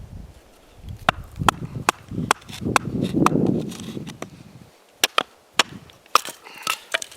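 Small frozen logs being split for kindling: a series of sharp wooden knocks and cracks, with a longer crackle of splitting wood about three seconds in.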